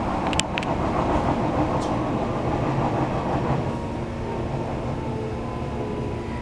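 Interior running sound of an Odakyu 3000 series electric train with a Mitsubishi IGBT-VVVF inverter: a steady rumble of wheels on track under faint steady whine tones, with a few sharp clicks less than a second in. It eases slightly after about four seconds.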